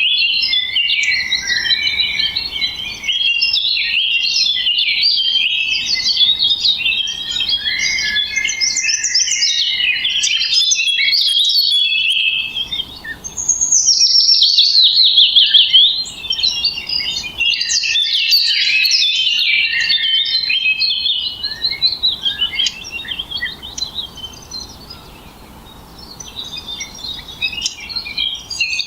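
Songbirds chirping and twittering continuously, many quick calls following and overlapping one another. About halfway through comes a louder run of rapid falling notes, and near the end the song grows quieter for a few seconds before picking up again.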